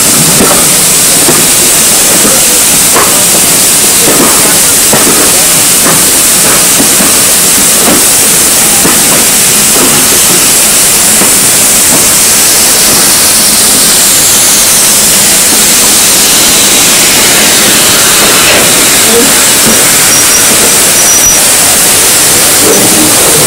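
Steam locomotive hissing steam loudly and steadily, with scattered knocks and clanks, mostly in the first half. In the second half a faint high tone falls slowly in pitch.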